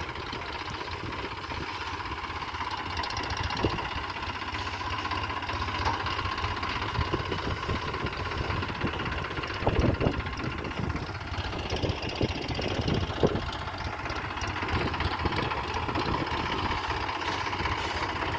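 Tractor engine running steadily, with a few sharp knocks or clanks about ten and thirteen seconds in.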